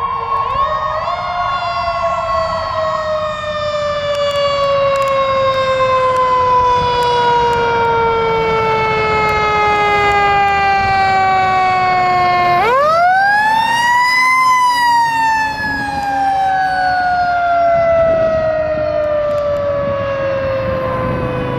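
Fire engine tanker's mechanical siren coasting slowly down in pitch, wound back up sharply about halfway through and left to coast down again, over the truck's engine and road noise.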